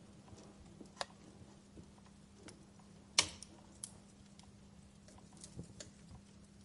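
Wood fire crackling: sparse, irregular snaps and pops, the loudest a sharp pop about three seconds in.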